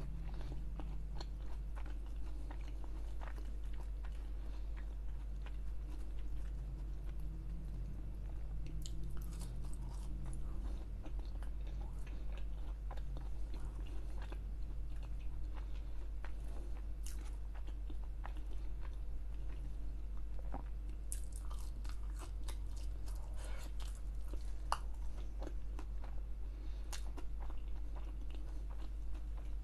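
A person chewing and biting fried fast-food sides close to the microphone: wet chewing with crisp crunches and mouth clicks scattered through, over a steady low hum.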